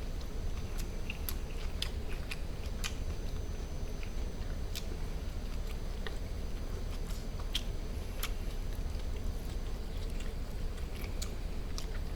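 Close-miked chewing of barbecued duck meat wrapped in aged kimchi: irregular wet clicks and smacks of the mouth, over a steady low hum.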